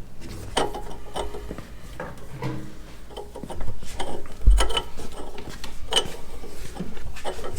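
Workshop handling noises: scattered clanks, knocks and scraping of metal exhaust pipe parts being moved, fitted and clamped, with a heavier knock about four and a half seconds in.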